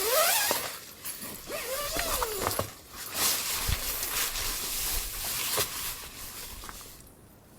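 Blizzard wind gusting, a rushing noise that swells and eases, with faint howling whistles that rise and fall, dying down near the end.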